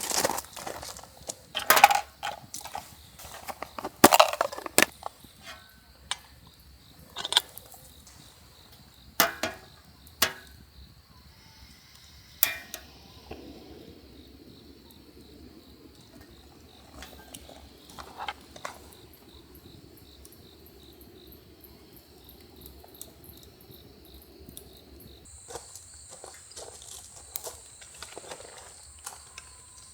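Crickets chirring steadily at a high pitch. Over it come a series of sharp clicks and knocks in the first dozen seconds, the loudest sounds here, and a soft rustling noise for about ten seconds in the middle.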